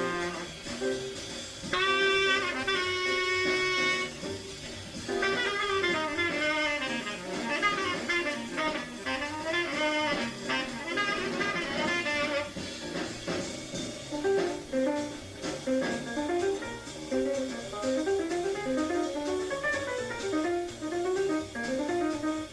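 Small-group jazz: a saxophone plays fast melodic phrases over bass and drums during the first half. Later the lead passes to a lower, plucked-string line.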